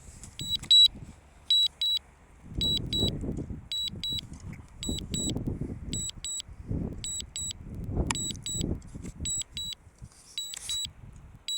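Drone controller warning beeps: short high beeps in quick pairs, repeating about once a second, sounding a low-battery alert during return-to-home. Uneven gusts of wind rumble on the microphone underneath.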